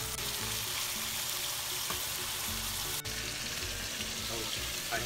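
Thin-sliced sirloin steak frying in a hot pan: a steady sizzle as the strips sear and are turned with a spatula, with a momentary break about three seconds in.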